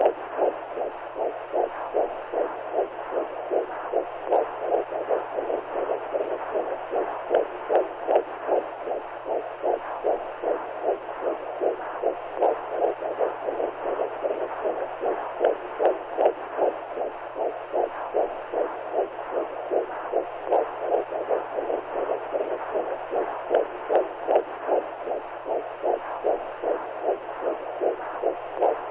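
Womb sound for soothing newborns: a muffled whooshing that pulses in a fast, even heartbeat rhythm over a faint steady low hum.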